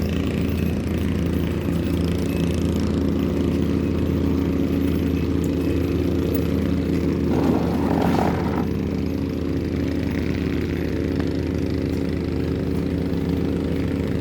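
A small engine running steadily at an even idle. About halfway through, a brief burst of noise rises over it for a second or so.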